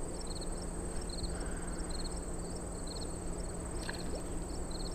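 Insects calling: a continuous high-pitched trill with a regular chirping about three times a second, over a low steady hum.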